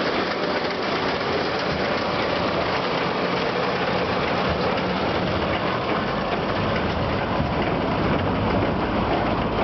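Hesston 4910 large square baler running, driven by a tractor, a steady mechanical clatter over the engine that grows heavier about halfway through.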